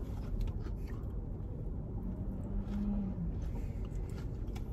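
A person chewing a breakfast toaster sandwich with faint mouth clicks, and a short hummed "mm" about two seconds in, over a low steady rumble inside the car.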